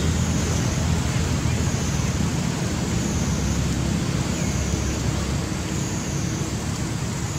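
Steady low rumbling background noise with an even hiss over it, with no distinct events.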